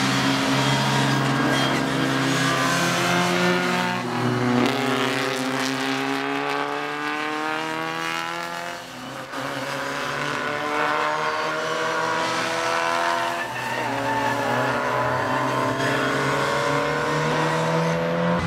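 Classic Mini Cooper racing engines, small four-cylinders breathing through Weber side-draft carburettors, running hard on track. Their note falls for several seconds, dips briefly about nine seconds in, then climbs again as the cars go past and accelerate.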